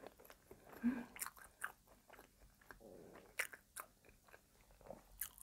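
Close-miked chewing of soft, caramel-sauced brioche French toast: faint, wet mouth clicks scattered irregularly.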